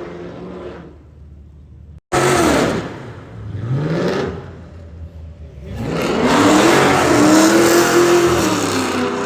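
Car engine revving: two short revs that rise and fall, then a longer rev held high for a couple of seconds before dropping back.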